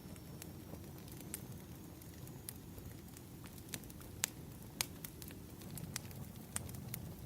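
Burning firewood crackling: a steady low rumble with sharp, irregular pops and snaps, the loudest a little after four seconds in and again just before five.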